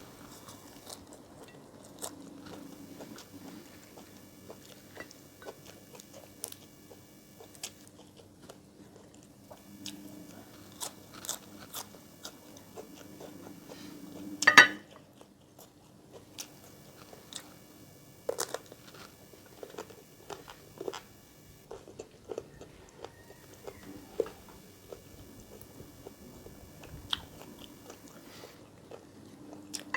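A person chewing and biting food close to the microphone, with crisp crunches and small wet mouth clicks throughout. One loud sharp crunch comes about halfway through.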